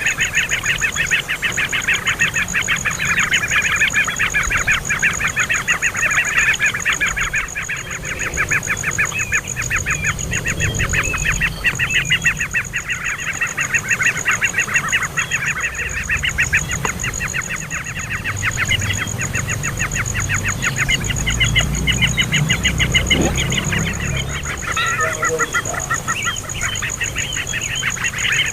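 A young bird calling in a rapid, continuous chatter of short harsh notes, easing briefly around the middle before picking up again.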